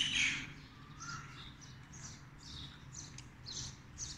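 Small birds chirping in a string of short calls, several a second, over a faint steady low hum.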